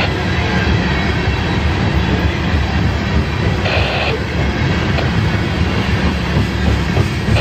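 Tank cars of a CSX freight train rolling past, wheels on rail making a steady low rumble, with a brief high squeal about four seconds in.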